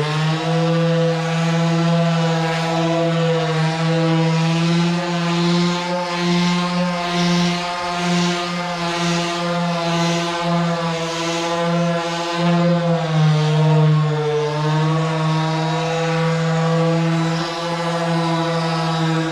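Dual-action orbital polisher running at a steady pitch, working hand polish on a rag pad into an aluminum tank; its pitch dips slightly about 13 seconds in.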